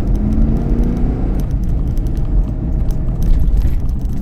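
Steady low rumble of engine and tyre noise heard from inside a moving car.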